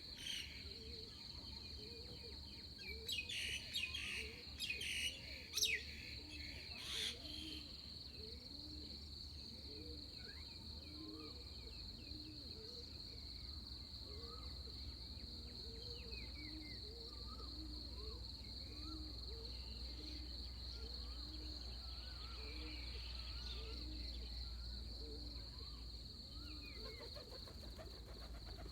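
Pre-dawn dawn chorus: a steady high insect drone runs under a long series of low, evenly repeated animal calls that alternate between two pitches. A bird gives a burst of loud chirps a few seconds in, with softer bird chirps scattered later, over a low rumble of breeze.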